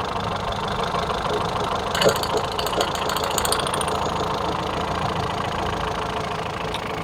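Ford Figo's four-cylinder engine idling steadily; the engine has stored misfire codes for cylinders 3 and 4 and an idle speed that wanders up and down. A quick run of fast metallic clicking starts about two seconds in.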